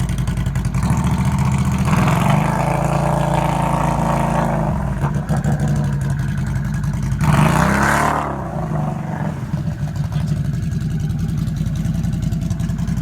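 Can-Am off-road vehicle engine running, revved up twice: a longer surge about two seconds in and a short one about seven seconds in, then settling back to a steady run.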